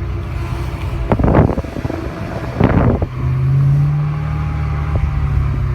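BMW E92 M3's V8 engine running, with two brief noisy bursts, then a steady whine that comes in a little past halfway. The owner suspects the power steering fluid or filter as the cause of the whine.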